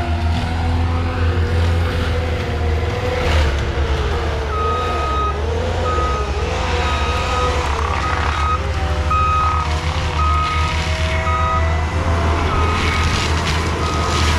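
Skid steer's diesel engine running steadily, its pitch wavering up and down with load. From about four and a half seconds in, its reversing alarm beeps in an even, repeating pattern, pausing briefly near the end.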